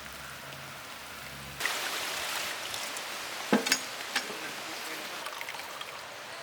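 A pot of boiling water and chicken hisses and bubbles steadily, starting about one and a half seconds in. A few sharp knocks follow around the middle, from the pot being handled.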